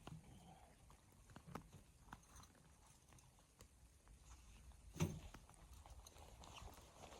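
Quiet, scattered faint knocks and crunches, with one sharper knock about five seconds in.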